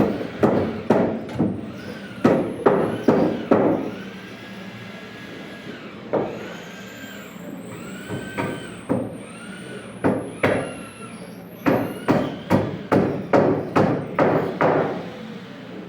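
Hammer blows on wood, about two to three sharp knocks a second. They come in two runs, one at the start and one from about ten seconds in, with only scattered blows between.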